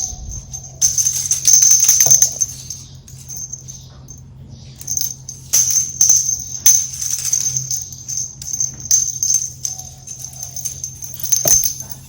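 Small bell on a cat teaser wand jingling in irregular shakes and bursts, over a low steady hum.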